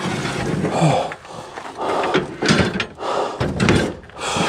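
Clunks and scrapes of heavy sawmill parts being handled and shifted into place.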